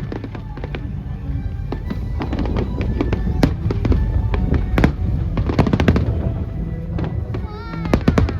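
Fireworks going off in rapid succession: a dense run of bangs and crackles over a steady low rumble, with a short warbling tone near the end.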